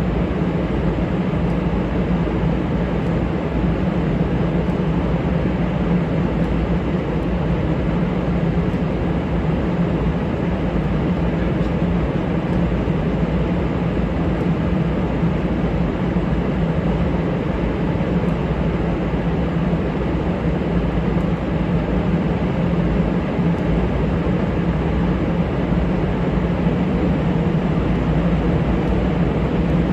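F-35A Lightning II's jet engine running steadily: an even rumble with a constant low hum, holding the same level without rising or falling.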